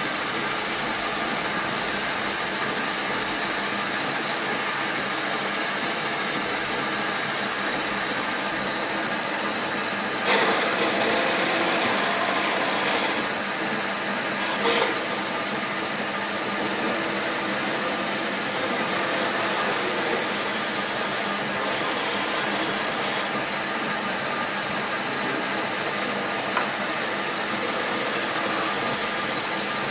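A shop machine running steadily just after being started, a dense mechanical noise with several steady hums in it. It gets louder for a few seconds about a third of the way in, with another short louder moment soon after.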